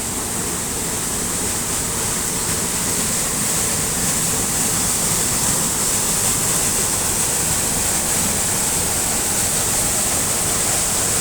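Rushing water: a steady, even rush with a hissing top.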